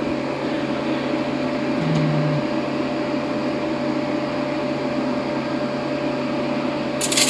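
Steady mechanical hum with a constant tone, like a running fan or similar appliance, and a short sharp noise just before the end.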